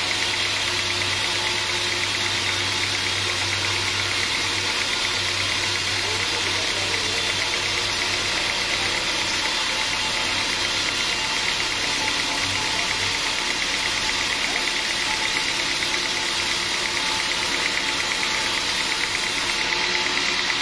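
Sawmill machinery running with a steady, even mechanical din; a low hum underneath fades out about two-thirds of the way in.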